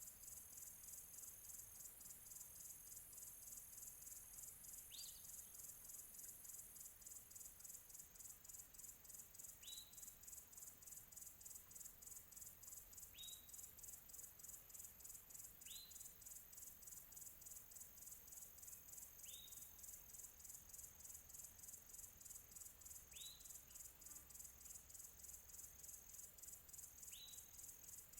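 Faint crickets chirping in a steady, fast-pulsing chorus, with a bird repeating a short rising call every three to four seconds.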